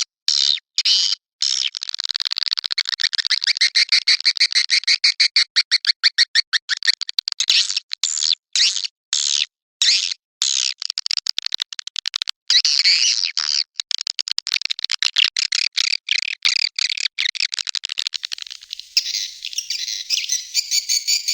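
Swiftlet calling track: many swiftlets twittering in rapid, dense chirps, the kind of call played to lure swiftlets into a nesting house. Near the end the chirping changes to a more even, regularly repeating pattern.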